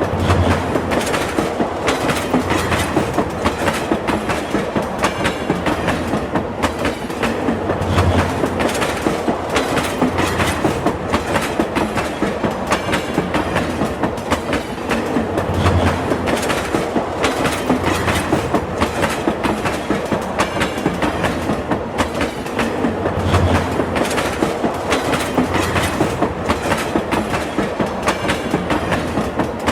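Train running at speed, its wheels clacking rapidly over the rail joints with a steady rumble, and a deeper low thump about every seven to eight seconds.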